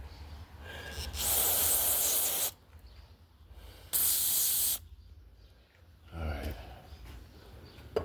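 Aerosol can of carburetor cleaner spraying in two bursts, the first a little over a second long and the second just under a second, cleaning off an old spark plug.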